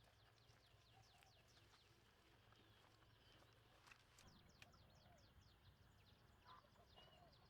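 Near silence: faint outdoor rural ambience with many faint, short, high chirps falling in pitch and a few soft clicks.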